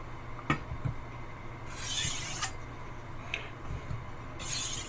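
A 10-inch Wusthof Classic chef's knife drawn along a 1000-grit water stone in two slow scraping strokes, about two and a half seconds apart, with a light click about half a second in.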